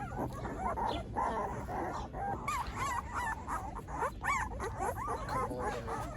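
Young Newfoundland puppies whimpering and squeaking: many short, high, wavering cries that rise and fall and overlap one another.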